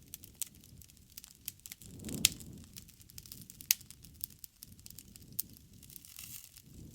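Campfire burning: irregular sharp pops and snaps over a low rumble of flames, with a loud pop a little after two seconds and another near four seconds.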